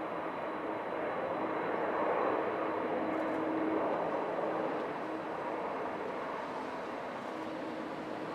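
Jet airliner engines heard at a distance as a steady rush with a faint hum and a thin high whine. The sound swells slightly a couple of seconds in, then eases off.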